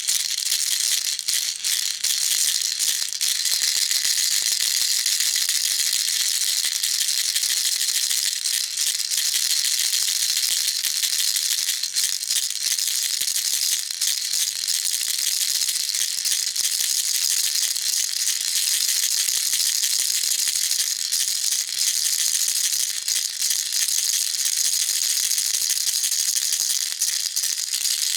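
Baby rattle shaken continuously: a steady, unbroken, high-pitched rattle with no pauses.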